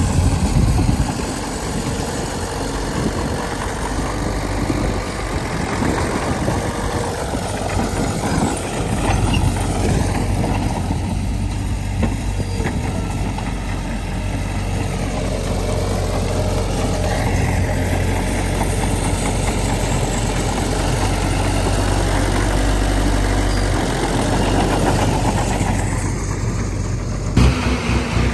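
Heavy diesel earthmoving machinery running steadily, its engine pitch rising and falling slightly as it works. The sound changes abruptly near the end.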